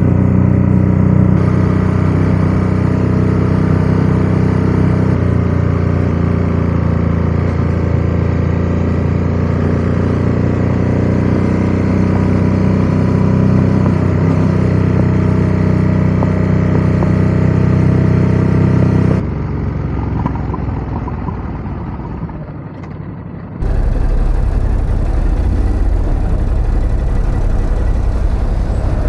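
Motorcycle engine running steadily, likely the Ducati Scrambler 1100's air-cooled L-twin. About two-thirds of the way in the sound cuts to something quieter, and near the end a loud low rumble of wind buffeting the microphone takes over.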